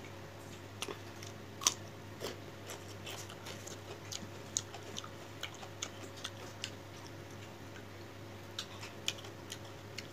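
Close-up eating sounds of a person chewing fish curry: short, irregular wet mouth clicks and smacks, a few a second, with a steady low hum underneath.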